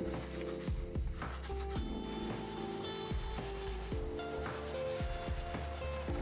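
Cloth rubbing lemon oil into a guitar fretboard in repeated strokes, over background music with held notes.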